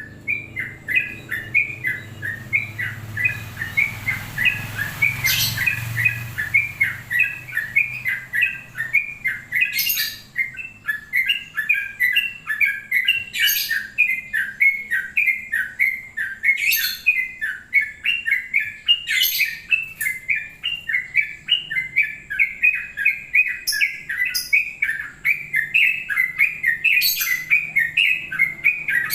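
Yellow-vented bulbul (trucuk) singing a long, unbroken run of rapid chattering notes, several a second, the rapid-fire 'ropel' style of song. A few sharp clicks cut through the song now and then.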